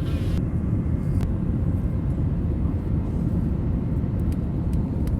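Airliner cabin noise: a steady low rumble of the engines and rushing air, heard from inside the passenger cabin.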